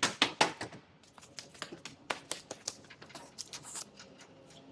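Irregular sharp taps and clicks of hand tools working on metal: a quick cluster of louder knocks at the start, then lighter scattered ones.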